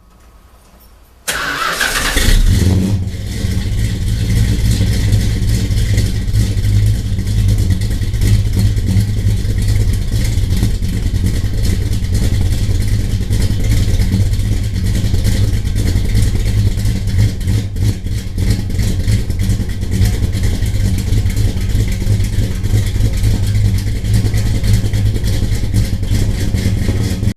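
Chrysler 440 big-block V8 firing up about a second in and settling into a loud, steady run with a deep low rumble, on open exhaust with no mufflers.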